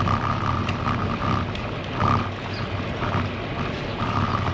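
Wind rushing over the microphone and road noise from a moving road bike. An intermittent steady squeal comes and goes, loudest about two seconds in and again near the end; it is the front disc brake rotor rubbing on its pads.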